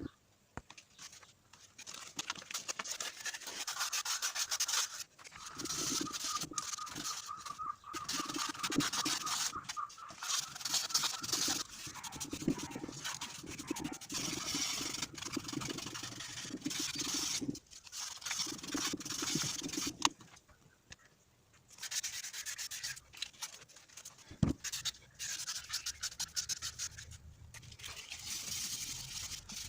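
Abrasive rubbing on a starter motor part, probably cleaning it, in repeated bouts of a few seconds with short pauses and a few sharp clicks.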